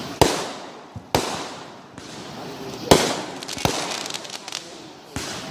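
Fireworks going off: a string of sharp bangs, about a second or two apart, each trailing off in an echo, with smaller crackling pops between them.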